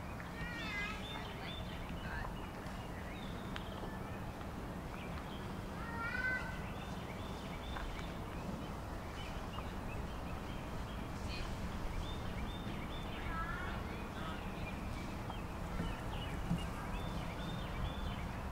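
Songbirds singing, with many short chirps and quick trilled phrases from more than one bird, over a steady low background noise.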